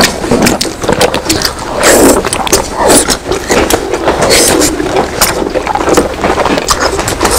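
Close-miked chewing and mouth sounds of someone eating sticky glazed braised pork, with many short wet clicks and smacks.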